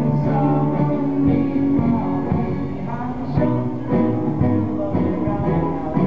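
Live music played by a group of buskers, led by guitar.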